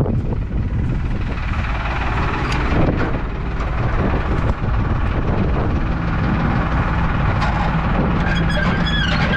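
Tractor engine running steadily, a low rumble mixed with wind on the microphone.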